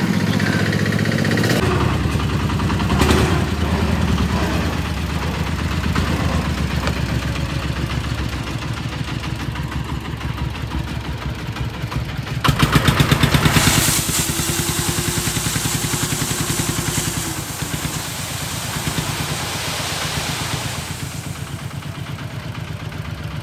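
Diesel engine of a công nông farm truck running with a steady rapid thudding beat, briefly louder about halfway through.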